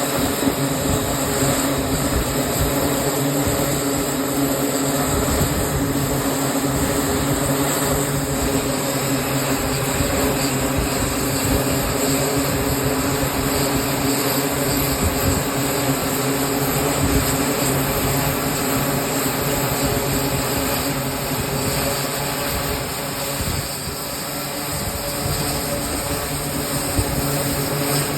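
Aircraft engines running steadily during carrier flight operations: a loud, continuous drone with a low hum and a high whine, easing slightly about three-quarters of the way through.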